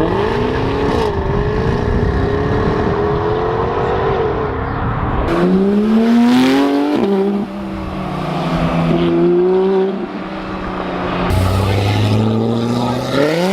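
Car engines revving and accelerating away, one after another. The engine pitch climbs steeply about five and a half seconds in, drops with a gear change, and climbs again near the end.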